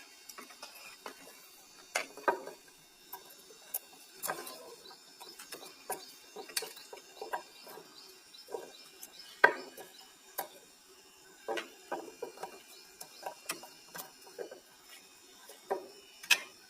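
Irregular small clicks and light knocks of plastic parts being handled: the vent caps being pried off and set back on the cells of a small lead-acid battery. The clicks come singly at uneven gaps, a few of them sharper.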